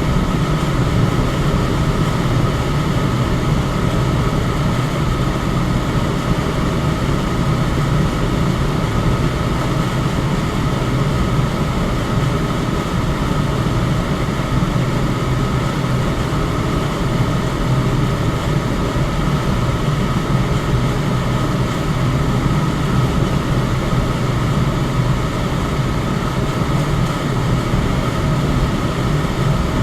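Electric fan running steadily, a constant low rushing of air with a faint high steady tone over it.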